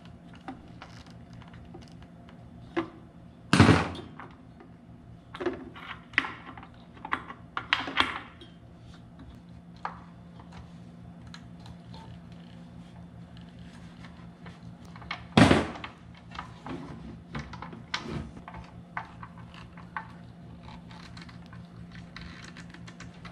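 Clunks, clicks and knocks of ceiling fan parts being handled and fitted together, with two loud thunks about 3.5 s and 15.5 s in. A steady low hum runs underneath.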